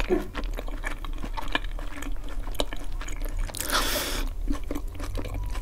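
Close-miked chewing of baked eggplant with cheese and garlic: soft wet mouth clicks and squelches, with a louder bite into the slice about three and a half seconds in.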